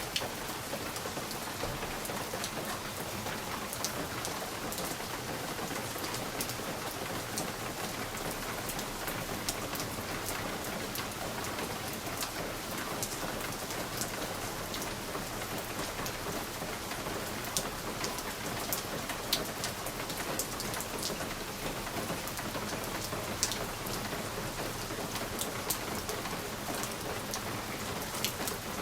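Steady rain on a window pane: a constant hiss with many scattered, sharp individual drop taps.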